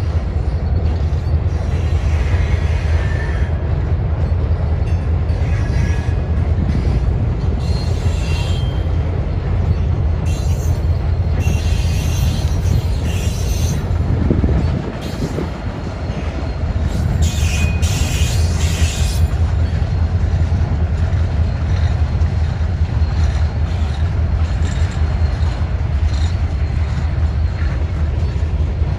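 Freight train cars rolling past with a steady low rumble, broken by short spells of high-pitched wheel squeal twice in the middle. The rumble drops briefly about halfway through.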